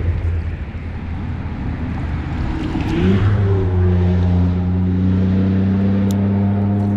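An engine running, rising in pitch about three seconds in and then holding a steady hum.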